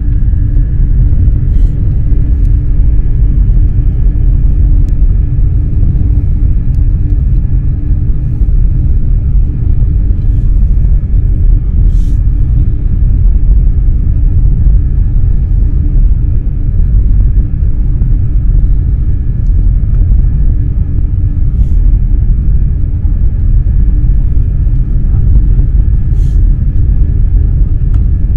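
Eurostar high-speed electric train running at speed, heard from inside the carriage: a loud, steady, low rumble with a faint steady whine above it.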